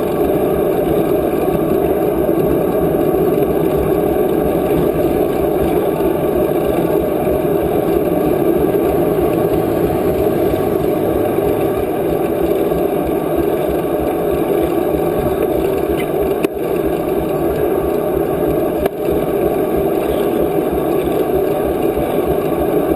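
Steady wind rush and rumble on the microphone of a moving bicycle, with two brief knocks in the second half.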